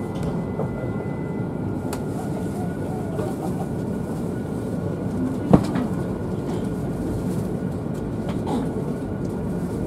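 E5 series Shinkansen train running past the platform: a steady rumbling noise, with one sharp click about five and a half seconds in.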